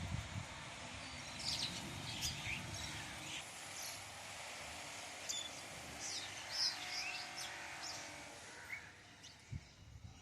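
Birds chirping in short, scattered calls over a steady background hiss, with a low thump near the end.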